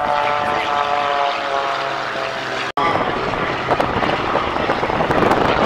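Propeller aerobatic aircraft engines passing, the engine note falling steadily in pitch as they go by. The sound cuts out for an instant a little over halfway through, then returns rougher and noisier.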